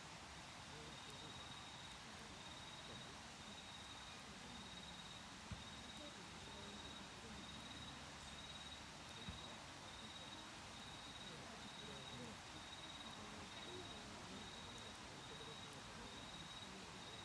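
Autumn insects chirping in a steady, evenly pulsing high trill, over the faint hiss of a wood fire. Two small crackles from the burning wood stand out about five and nine seconds in.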